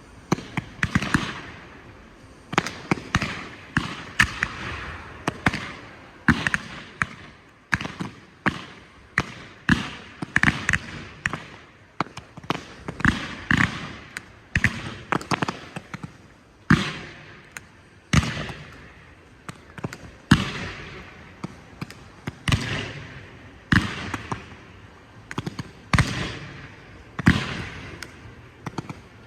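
Low-noise display fireworks firing continuously: a rapid run of sharp pops and crackles in clusters, several a second.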